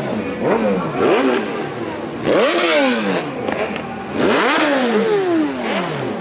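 Motorcycle engines revved in repeated throttle blips, about five in a few seconds. Each climbs sharply in pitch and falls back slowly, with several bikes overlapping.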